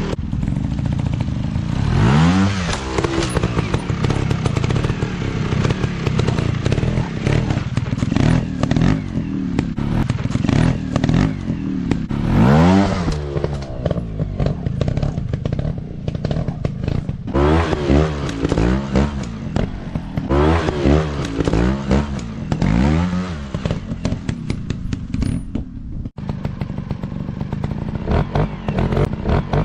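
Off-road motorcycle engine running with repeated rising revs, climbing in pitch every few seconds, with clattering knocks in between.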